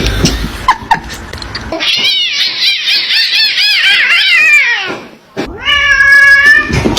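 Cat meowing: a rapid string of short, high cries for about three seconds, then, after a brief pause, one long drawn-out meow near the end.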